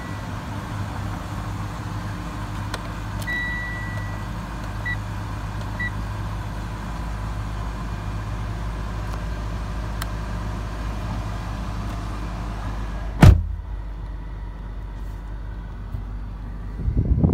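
2011 Mitsubishi Outlander's engine idling in park, a steady low hum heard from inside the cabin. A few short high beeps sound in the first few seconds, and a single sharp click comes about 13 seconds in, after which the faint higher hiss stops.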